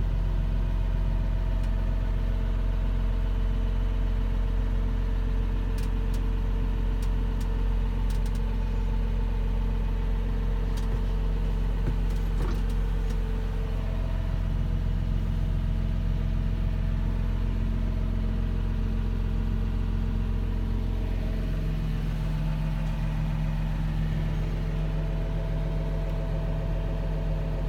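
Massey Ferguson 6480 tractor's six-cylinder diesel engine running steadily at a low, even speed. Its note shifts slightly about halfway through and again a few seconds later.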